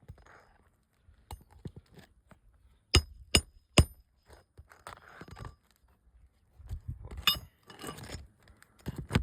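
Metal tool working roofing nails out of asphalt shingles: three quick, sharp metallic strikes about three seconds in, then scraping and scattered clinks, with more strikes near the end.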